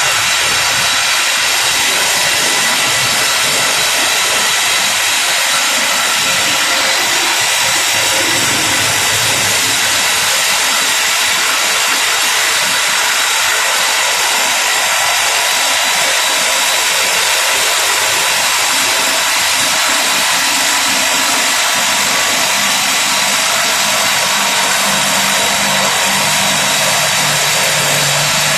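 Simba S7D long-hole drill rig drilling: the top-hammer rock drill driving T-38 rods with a 64 mm bit, a loud, even, hissing din that holds steady. A lower hum joins in near the end.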